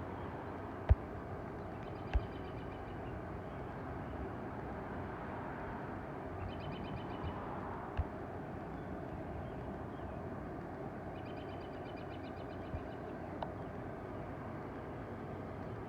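Garden ambience after rain: a steady low rushing background with a rapid high trill in four short bouts, about a second each. A few sharp single taps stand out, the loudest about a second in.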